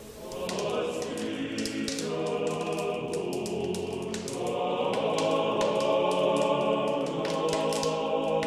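A choir singing slow, sustained chords without instruments, coming in about half a second in.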